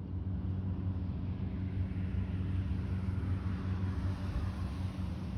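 Steady low engine rumble with a hiss that swells up around the middle.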